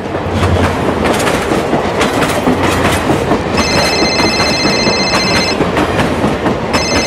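A train passing at speed close by, its wheels clattering over the rail joints. A high squeal rings out twice, about halfway through and again near the end.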